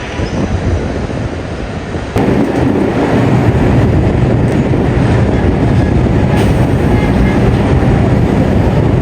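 An R142A subway train running on the rails, with a steady heavy rumble. About two seconds in, the sound suddenly steps up louder.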